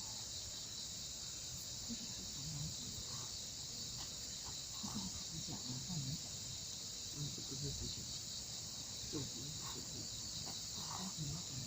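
A steady, high-pitched chorus of insects, likely crickets, with faint scattered low sounds beneath.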